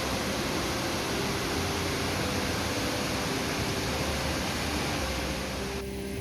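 Steady, dense rushing roar of a large waterfall, with faint held music notes underneath. The roar cuts off abruptly near the end, leaving the soft music.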